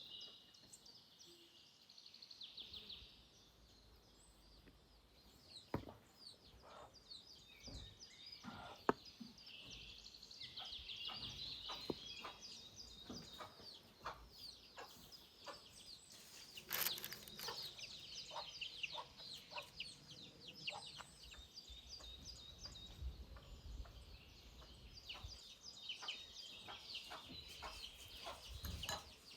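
Chickens clucking, with small birds chirping throughout and a few sharp knocks.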